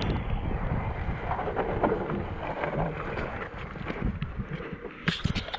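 Wind rushing over the microphone, with rumble and rattle from a mountain bike riding a wet dirt jump line. The rumble eases after about three seconds, and a cluster of sharp clicks and rattles comes near the end.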